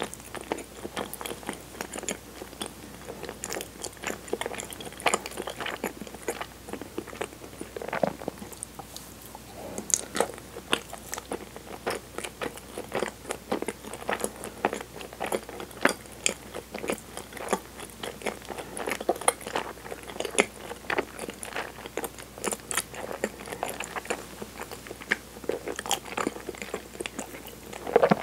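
Close-miked chewing of soft, sticky cinnamon-flavoured chigiri mochi coated in kinako: a steady run of small clicks and smacks from the mouth, with a louder burst near the end.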